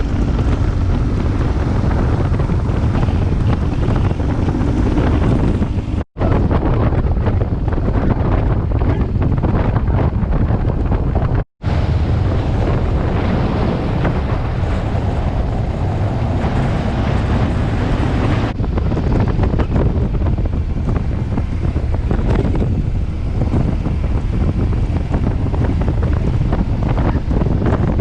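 Wind buffeting the microphone of a motorcycle ridden at road speed, over the low drone of the BMW R1200GS's boxer-twin engine. The sound drops out briefly twice.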